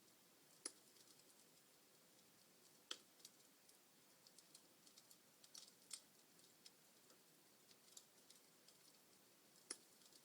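Wood fire crackling faintly in a fireplace: scattered small ticks over a soft hiss, with a few louder sharp pops, one under a second in, one about three seconds in, one around six seconds and one near the end.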